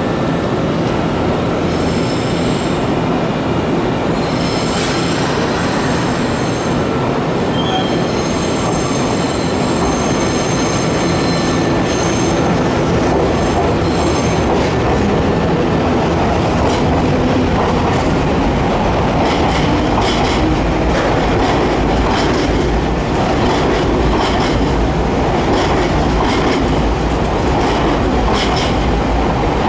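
Nankai electric commuter train running along a station platform: a steady rolling rumble with thin high wheel squeals through roughly the first half. In the second half the rumble grows heavier and is broken by short clicks of the wheels over rail joints.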